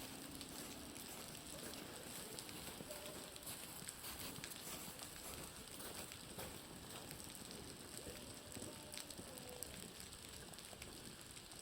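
Steady dense crackling patter of meltwater dripping and splashing off a building's roof, mixed with a bonfire's crackle; the dripping sounds much like a fire crackling.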